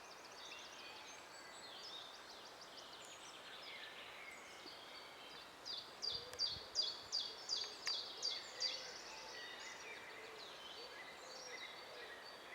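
Forest birds singing over a steady outdoor hiss: trills and series of high chirps, with one bird giving a louder run of about eight quick, evenly spaced notes around the middle.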